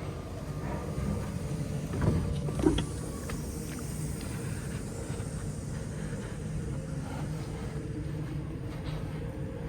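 MAN TGX 18.510 truck's six-cylinder diesel engine idling with a steady low rumble. A few short knocks come about two to three seconds in.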